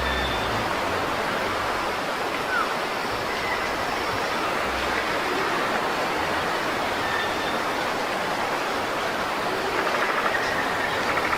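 Steady rushing outdoor ambience with a few faint, short bird calls over it.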